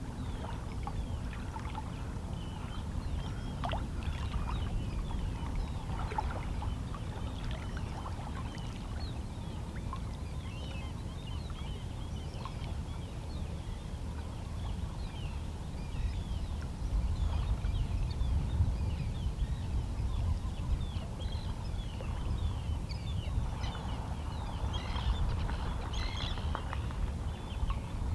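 Small, gentle sea waves lapping against shoreline rocks: water trickling and splashing among the stones, over a steady low rumble of the sea. The lapping swells a little louder about halfway through and again near the end.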